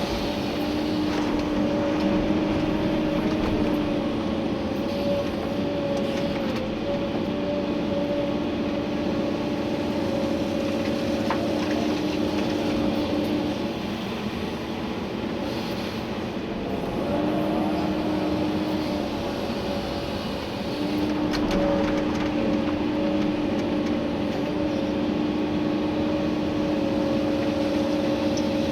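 Komatsu PC290-11 excavator's diesel engine and hydraulics working, heard from inside the cab: a steady mechanical run with a whine on top that falls away for a few seconds around the middle and again briefly later before returning.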